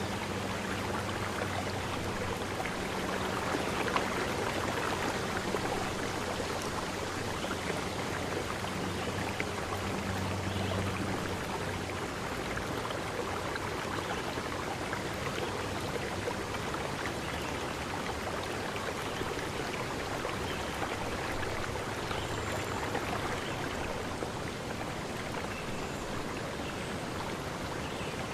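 River stream running over rocks: a steady, even rush of water. A low hum sits underneath for the first twelve seconds or so, then fades out.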